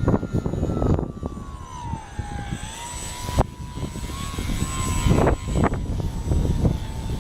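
Radio-controlled foam model airplane's motor and propeller whining steadily, the pitch dipping slightly and then holding, under heavy gusty wind buffeting the microphone.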